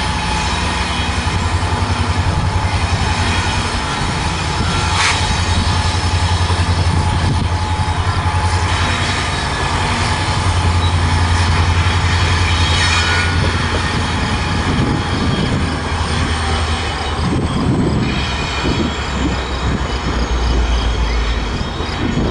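Train cars rolling past at close range: a steady rumble of wheels on the rails with thin, steady wheel squeal over it, easing a little in the last few seconds.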